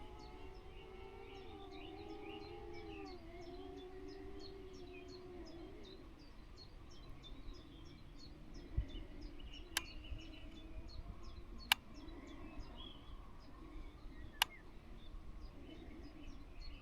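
Small birds chirping in quick repeated short notes, over a wavering pitched hum that fades out about six seconds in. Three sharp clicks come later.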